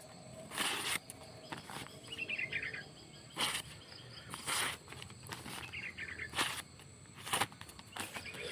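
Outdoor ambience of birds chirping in short descending trills over a steady insect chirr, with about five brief rushing noises scattered through it.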